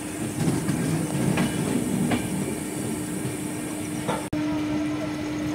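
Passenger train coaches running as the train draws into a station, heard from the coach: a steady rumble and hum with occasional wheel clacks over rail joints. The sound cuts out for an instant about four seconds in.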